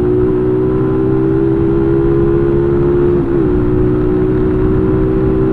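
Motorcycle engine running at a steady speed, its pitch dipping briefly a little over three seconds in.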